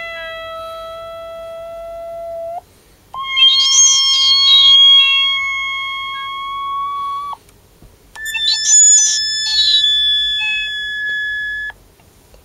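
Gakken SX-150 MarkII analog synthesizer at its default settings, playing three held electronic tones, each higher than the last. The second and third tones start with a quick bright sweep in tone, and each cuts off abruptly, with short gaps between them.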